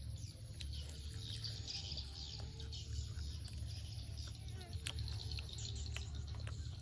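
Close-up eating sounds: chewing and picking at fried chicken wings, with scattered small clicks and crunches. Bird chirps sound in the background over a steady low hum.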